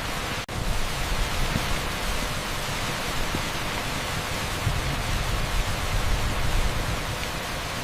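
Torrential rain pouring onto an asphalt street: a steady, dense hiss with a heavy low rumble, broken by a split-second dropout about half a second in.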